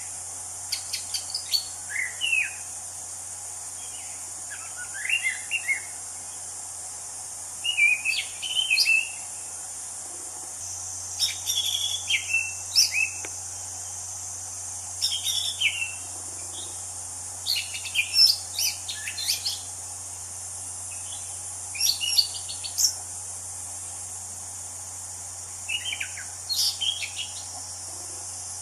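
Orange-banded thrush (anis cendana) singing in the wild: short phrases of quick chirps and whistled notes, repeated every couple of seconds with brief pauses, over a steady high hiss.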